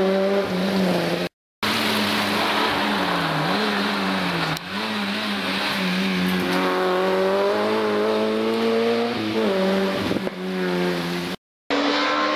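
Rally car engines accelerating hard through the gears, the revs climbing and dropping at each shift. The sound cuts out abruptly twice, about a second in and near the end, where shots are spliced together.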